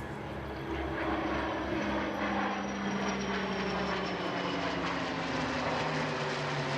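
Military aircraft engines, radial piston engines and jets together, in a low airshow pass: a steady, loud engine drone with a faint high whine that slowly falls in pitch as they go by.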